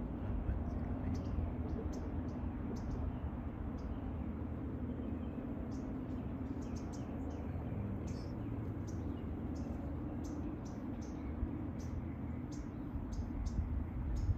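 Birds chirping: short, high, squeaky calls, scattered at first and coming thick and fast in the second half, over a steady low rumble.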